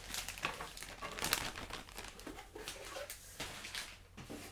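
Packaging crinkling and rustling as it is handled, in a quick irregular series of short crackles.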